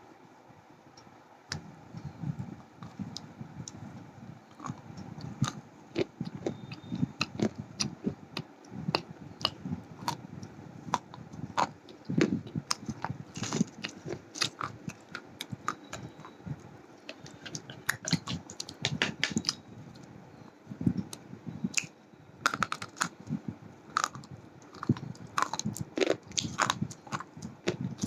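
A person biting and chewing hard slate pencils close to the microphone: sharp cracks and crunches, coming in quick runs at times, over a low grinding chew.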